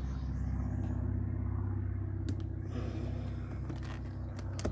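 Steady low rumble of an idling car engine, with a couple of faint clicks, one about halfway and one near the end.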